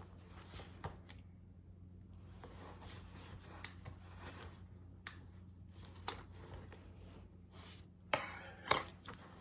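Scattered light clicks, taps and short rustles of small objects being handled, the two loudest near the end, over a low steady hum.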